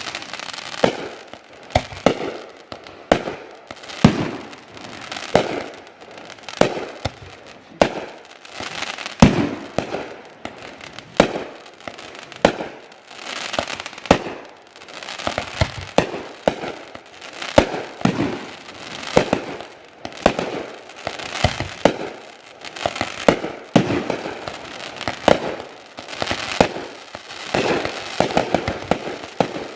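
Fireworks going off in a continuous barrage: sharp bangs about one to two a second, with crackling between them.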